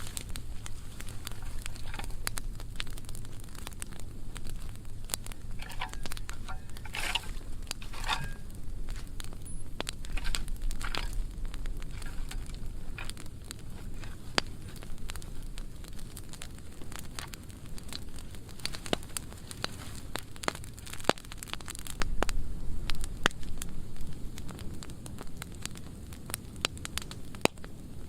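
Burning pile of dry pruning wood crackling, with a steady stream of sharp pops and snaps. A few louder pops come a third of the way in, and brief low rumbles sound twice.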